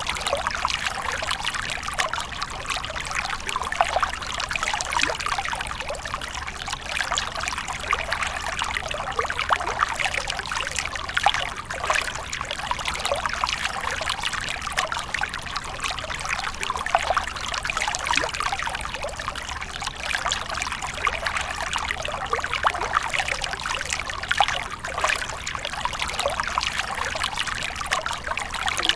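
Water splashing and trickling continuously, with many small irregular splashes and no pause.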